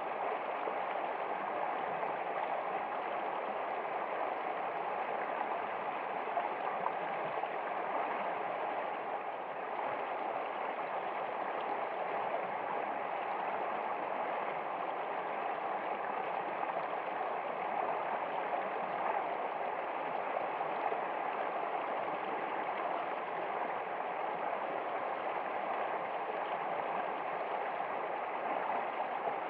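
A stream of flowing water, a steady, even rush with no breaks.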